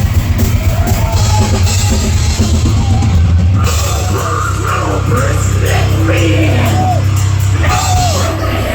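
Heavy metal band playing live and loud: a drum kit with distorted guitars over a heavy bass line.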